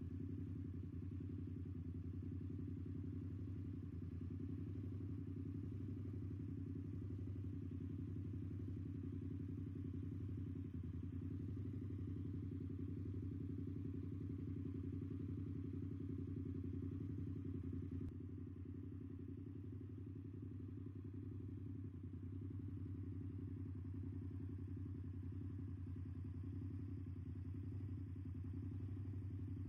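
Yamaha MT-07 parallel-twin engine idling steadily through a full aftermarket exhaust system, a low, even exhaust note that eases slightly in level about two-thirds of the way through.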